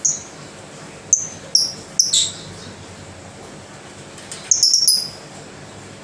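Lovebird giving short, shrill chirps: one right away, a few more over the next couple of seconds, then a quick run of several chirps close together near the end.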